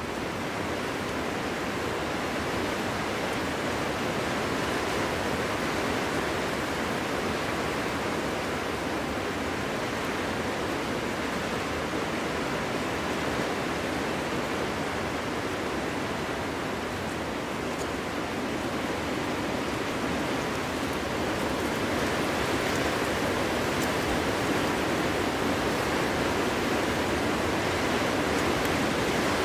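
Cold winter wind blowing through forest trees: a steady, even rushing that grows a little louder about two-thirds of the way through.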